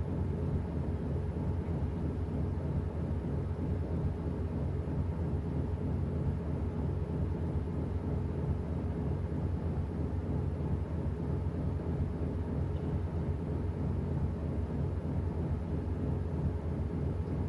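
Washing machine running: a steady low rumble with a faint hum, unchanging throughout.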